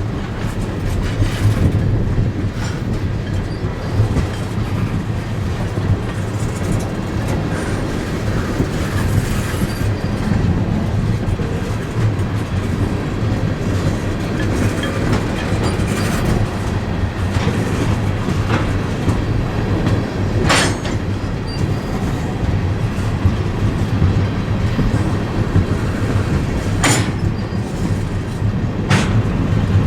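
Freight train running, a steady low rumble with wheels clicking over the rail joints, and a few sharp clicks near the end.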